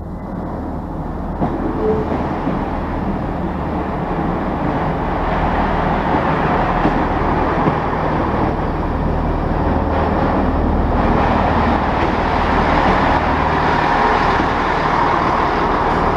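A train approaching, its running noise and low engine hum growing steadily louder.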